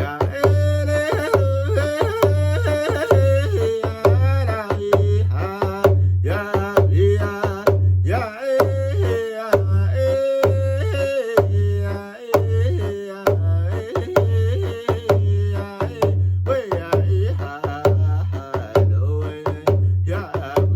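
Solo male voice singing a powwow round dance song in vocables, with no words, over a steady drumbeat at about one and a half strokes a second. The melody slides and falls from note to note.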